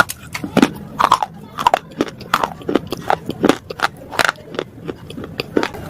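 Slate pieces being bitten and chewed close to the microphone: an irregular run of sharp, brittle crunches, two or three a second.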